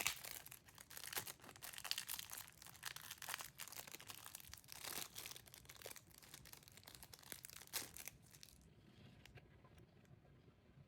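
Plastic packaging crinkling and rustling as it is handled and opened by hand, in irregular bursts that die down about eight and a half seconds in, leaving a few faint clicks.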